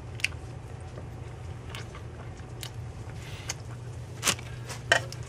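Mouth chewing a soft cupcake, with small wet clicks. About four seconds in come two louder sharp crinkles from the cupcake's plastic wrapper and tray being handled. A steady low hum runs underneath.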